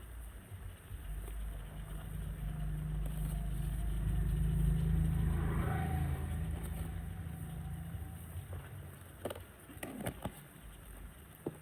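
A motor vehicle's engine rumbling, growing louder to a peak about five seconds in and then fading away, as a vehicle passing by does. A few short knocks near the end.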